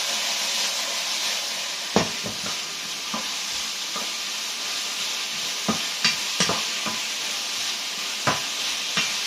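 Meat and vegetables sizzling steadily in a hot wok as they are stir-fried, with about six sharp knocks of the stirring utensil against the wok.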